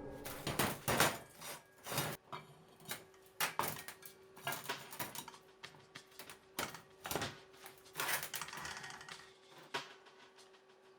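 Irregular clicks and light knocks, a few each second, over a faint steady hum.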